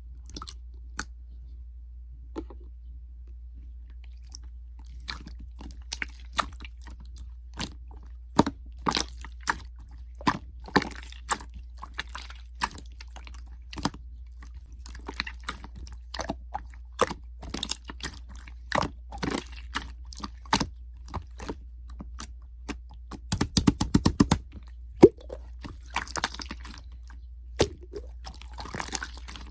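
Slime being mixed and kneaded by hand: sticky clicks and crunchy crackles, irregular and growing busier, with a dense run of crackling about 23 seconds in. A steady low hum lies underneath.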